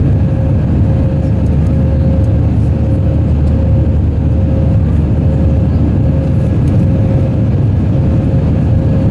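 Airbus A319 cabin noise in flight: the steady, loud roar of the jet engines and rushing air, with one steady hum tone running through it.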